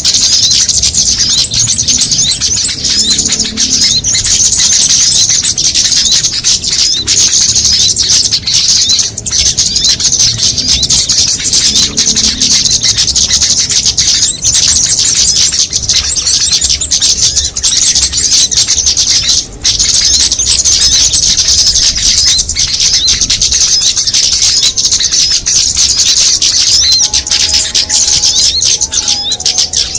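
A dense, unbroken chorus of many small songbirds chirping and twittering rapidly at once, a layered bird-lure mix of small-bird calls.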